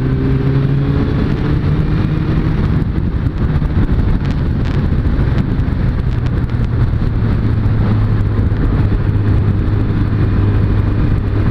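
Suzuki Bandit 600S inline-four engine running steadily while the bike is ridden on the road, under a heavy rush of wind and road noise. The engine note rises a little in the first couple of seconds, then holds.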